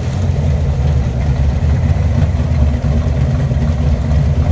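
Car engine idling with a steady, low rumble.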